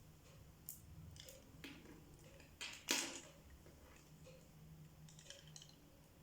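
Light clicks and taps of small metal hand tools being handled at a workbench, with one sharper click about three seconds in, over a faint low hum.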